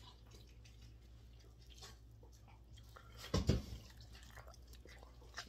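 Wet chewing and lip-smacking while eating sauced barbecue ribs, with small scattered clicks and a louder mouth sound about three and a half seconds in, over a low steady hum.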